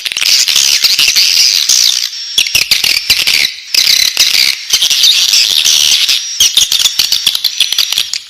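Swiftlet chicks in the nest chirping continuously, a dense high-pitched twittering with sharp clicks mixed in and a few brief pauses.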